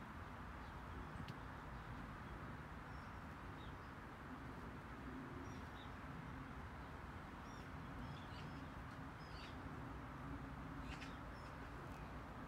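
Small birds giving short, high chirps every second or two over a steady low outdoor rumble.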